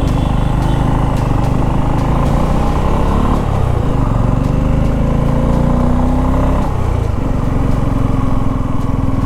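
Motorcycle engine running as the bike is ridden, heard close up from the machine. The engine note climbs steadily for a couple of seconds near the middle, then drops back about seven seconds in.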